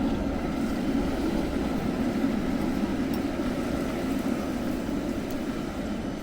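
Steady low rumble of a motor vehicle passing close by in city street traffic, swelling about a second in and easing off near the end.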